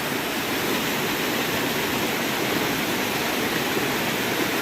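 Waterfall and river water rushing steadily, a continuous even noise with no breaks.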